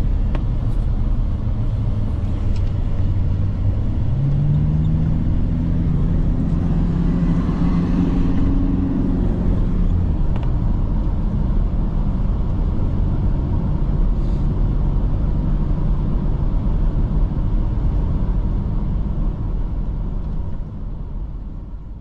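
Car engine and road noise heard from inside the cabin while driving. About four seconds in, the engine note climbs as the car accelerates, then it settles back into a steady rumble.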